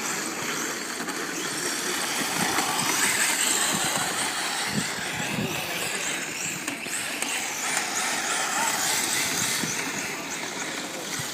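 Remote-control drift cars running: a steady hissing whir of small motors and sliding tyres, with faint wavering whines that rise and fall.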